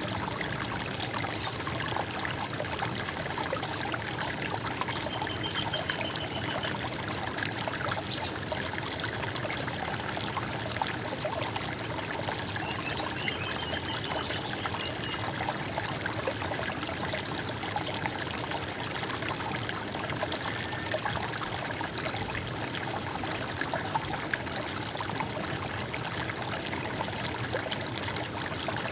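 Running water trickling and splashing steadily, with a few faint bird calls high above it.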